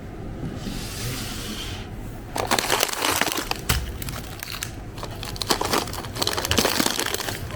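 Crinkling and rustling in two spells, starting about two and a half seconds in and again about five and a half seconds in.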